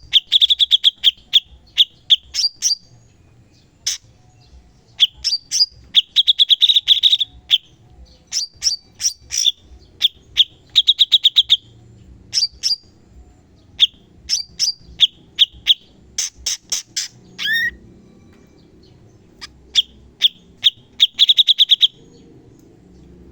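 Cucak cungkok songbird singing sharp, rapid 'tembakan' phrases: quick trills of high repeated notes with short pauses between phrases, and a sliding whistled note about two-thirds of the way through.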